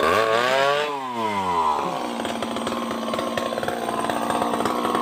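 Chainsaw engine blipped once, its pitch rising and falling back over about two seconds, then running steadily at a low idle.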